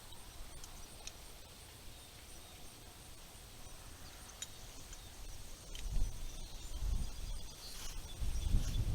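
Outdoor ambience with a steady high insect drone and a few light clicks. A low rumble builds in the second half.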